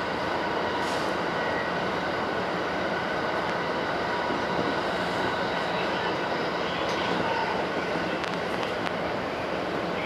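JR Kyoto Line electric commuter train running steadily along the track, heard from inside the leading car: an even rumble and rush of wheels on rail with a faint steady whine.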